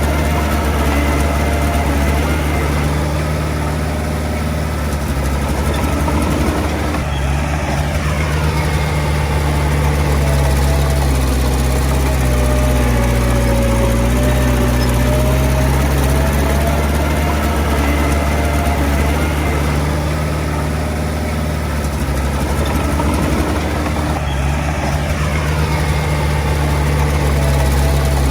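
Komatsu D20 bulldozer's diesel engine running steadily at work. Its note shifts briefly twice, about a quarter of the way in and again near the end.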